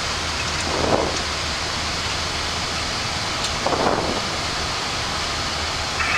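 Steady flight-deck noise of a Boeing 737-800 in climb: an even rush of airflow and engine noise over a steady low hum. Two brief, muffled swells rise out of it, about a second in and again near four seconds.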